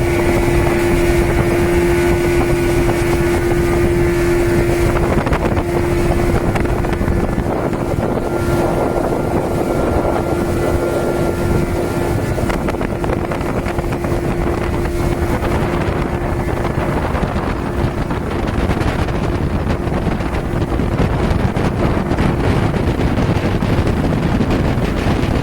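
Speedboat engine running at speed, with wind buffeting the microphone. A steady hum from the engine grows fainter after about five seconds.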